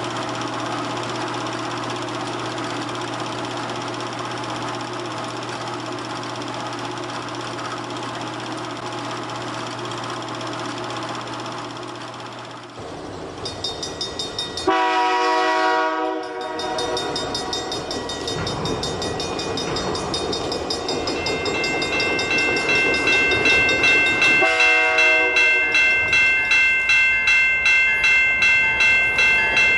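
Diesel locomotive running with a steady low drone. Its air horn sounds a chord in a blast about halfway through and again near the end. A rhythmic beat of about two to three a second with steady high ringing tones builds up over the last third.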